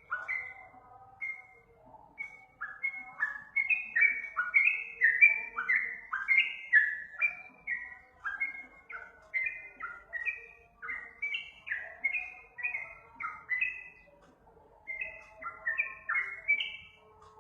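Yellow-vented bulbul (trucuk) singing: a quick run of short chirping notes, mostly sliding downward, a few each second, with a brief lull about two-thirds through.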